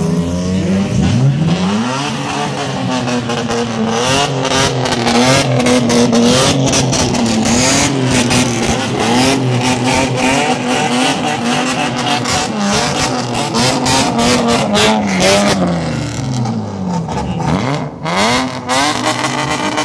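Bosozoku-style modified cars' engines being revved as they pull away one after another. The pitch rises and falls again and again in a rhythmic blipping about once a second, with sharp crackles throughout, and a deep dip and rise near the end.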